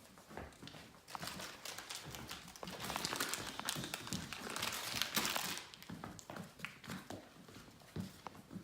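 Labrador puppy's claws tapping and paws scuffling on a hard floor as she moves about, loudest about three to five seconds in.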